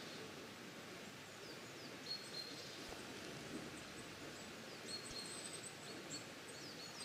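Outdoor winter ambience: a steady faint hiss with scattered short, high chirps and brief whistled notes from small birds.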